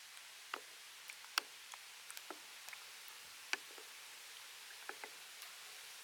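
Scattered sharp clicks and ticks, the loudest about a second and a half in and again about three and a half seconds in, over a faint steady hiss.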